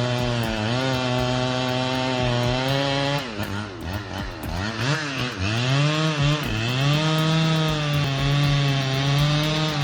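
Chainsaw engine running at high revs. Its pitch dips and wavers for a few seconds in the middle, as under cutting load, then holds steady again near the end.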